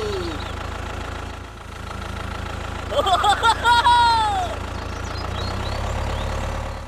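An engine hums low and steady, as a small vehicle's engine does at idle. About halfway through, a short high voice exclamation rises and then falls in pitch.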